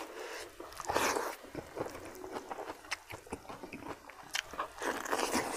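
A person chewing a mouthful of fried omelet curry close to the microphone, with many small wet smacking clicks of the mouth.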